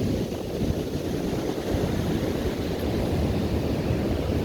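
Pacific Ocean surf on the beach mixed with wind buffeting the microphone: a steady, low rush of noise.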